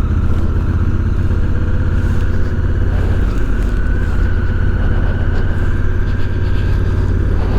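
2017 Honda Africa Twin's parallel-twin engine running steadily under way, heard from the bike, with a steady thin whine above the engine note.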